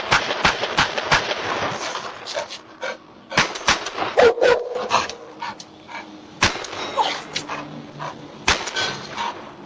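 A dog barking and making noise, with many sharp clicks or knocks scattered through it.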